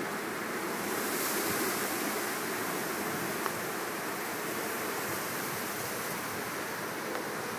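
Strong wind blowing steadily in gusts, rushing through the backyard, with a brief gust swelling about a second in and a single small tick or knock near the middle.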